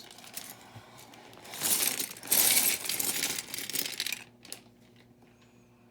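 A plastic parts bag crinkling as it is torn open, with small plastic building bricks spilling and clattering out. The noise is loudest about two and a half seconds in and dies away after about four seconds.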